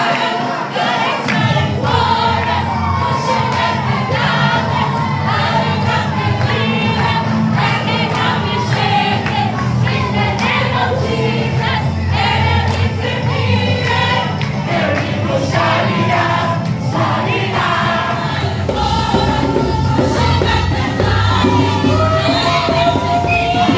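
Worship music with many voices singing together. A bass line comes in about a second in.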